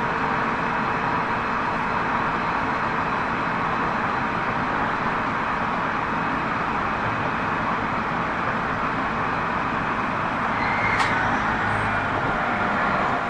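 Tobu 30000 series electric train running at steady speed, heard from inside a passenger car: a constant rumble and hiss of wheels on rail. A brief, sharp high-pitched squeak about eleven seconds in.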